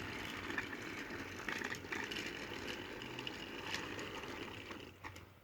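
Battery-powered TrackMaster Henry toy train's small electric motor whirring steadily, with faint small clicks as it pulls a train of coaches along plastic track. The whirr fades away near the end as the engine comes to a stop.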